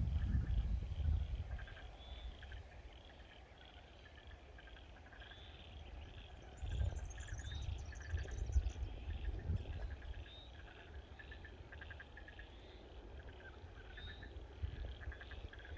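Outdoor bush ambience: many small creatures chirping over and over in high short calls, with a brief higher trill about halfway through. Low gusts of wind buffet the microphone, strongest at the start and again about halfway through.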